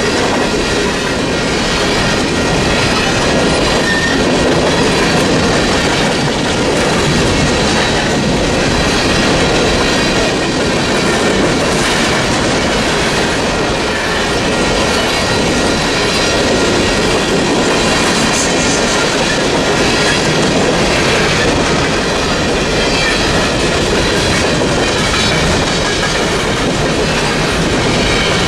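Freight train cars rolling past at a level crossing, the wheels clattering steadily over the rail joints with a faint high wheel squeal.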